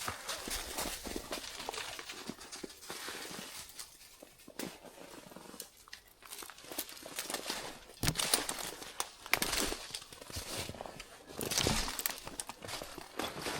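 Footsteps and rustling through dry leaves and brush, uneven crackling crunches with a few louder ones in the second half.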